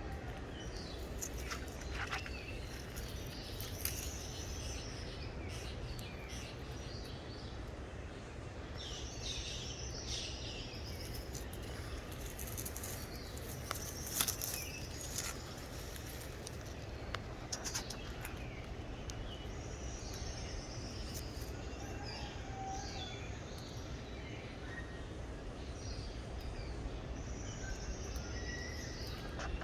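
Birds chirping and warbling now and then in high-pitched phrases over a steady low background rumble, with scattered light clicks.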